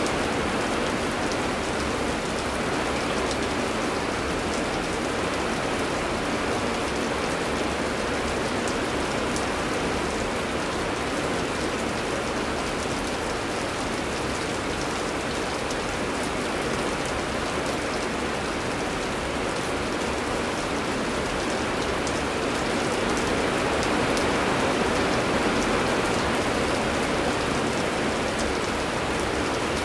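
Heavy rain falling steadily, an even hiss of rain with fine drop patter.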